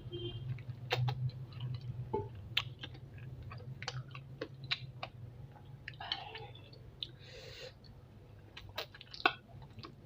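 Close-up mouth sounds of someone eating spicy chicken feet: chewing with scattered sharp, wet clicks and smacks, over a steady low hum.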